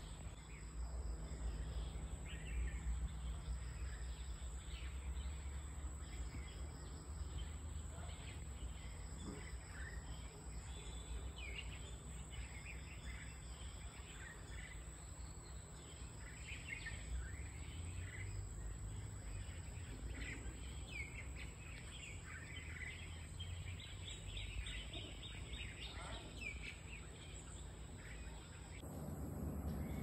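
Wild birds chirping in short, scattered calls over a steady low outdoor rumble, with a thin, steady high-pitched whine underneath.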